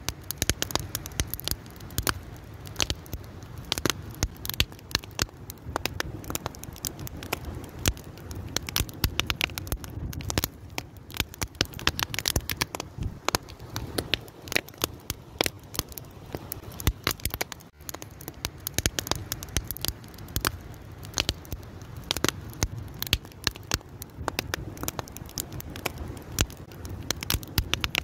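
Wood fire crackling: dense, irregular sharp pops and snaps over a steady low background of burning.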